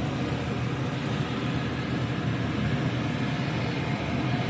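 Old electric fan running, blowing down over the cook: a steady rushing noise with a low hum, loud enough to swamp the audio.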